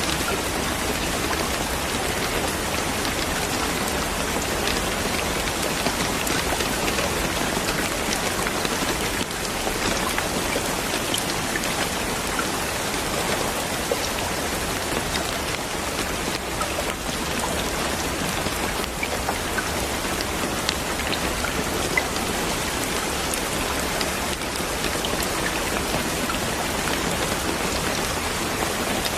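Steady rain falling: an even, dense hiss of drops, with many small separate drop ticks scattered through it.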